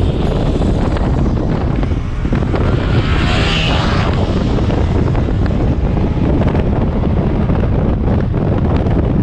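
Wind buffeting the microphone on a moving motorcycle, over a steady low engine and road rumble, swelling briefly about three seconds in.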